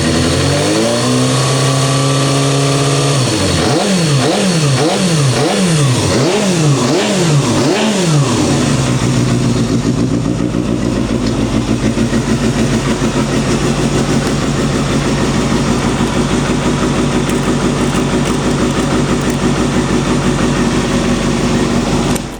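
Suzuki GSX250FX's 250 cc inline-four engine, fitted with an aftermarket exhaust, revving. It rises and holds at raised revs for a few seconds, then is blipped about seven times in quick succession, then settles to a steady idle. The sound cuts off abruptly at the very end.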